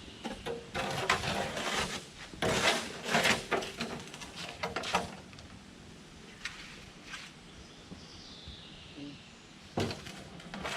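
Irregular clattering and knocks, as of hard materials being handled, for about five seconds, then quieter with a single sharp knock near the end.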